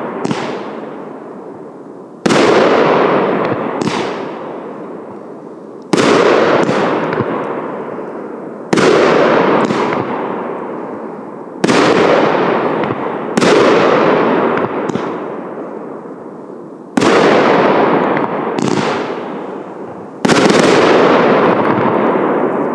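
A 25-shot 1.2-inch fireworks cake (battery) firing: seven loud bursts, one every two to four seconds. Each burst starts suddenly and trails off in a long fading rush of noise.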